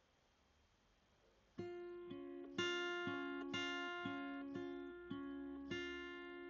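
Near silence, then about one and a half seconds in, gentle acoustic guitar music begins: slow plucked notes, about two a second, each left to ring.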